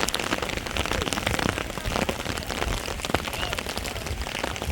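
Heavy rain falling, with a steady hiss and many separate drops striking surfaces close by.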